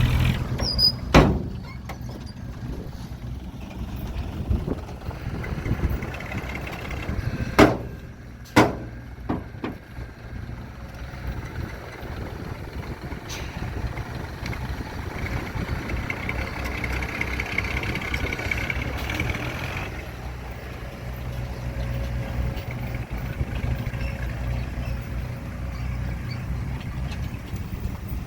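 Heavy diesel machinery running steadily at a low drone, with a sharp clank about a second in and two more around seven and eight seconds in.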